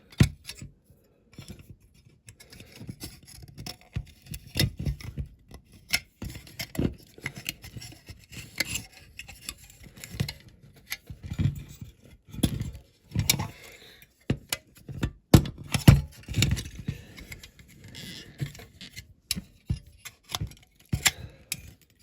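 Irregular clicks, taps and knocks of small die-cast metal and plastic parts being handled and prised apart while a Corgi die-cast toy ambulance is dismantled, its awkward plastic interior being worked loose.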